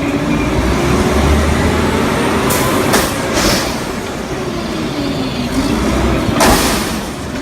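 Refuse truck engine running, its pitch gliding up and down, with short bursts of hiss about three seconds in and a louder hiss near the end.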